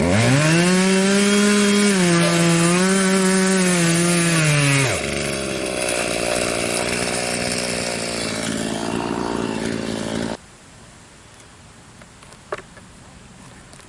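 Poulan 4620 two-stroke chainsaw revving up to full throttle and cutting through stump wood, its pitch dipping slightly under load for about five seconds. It then drops to a lower, rougher sound for another five seconds before the sound cuts off abruptly, leaving a few faint clicks.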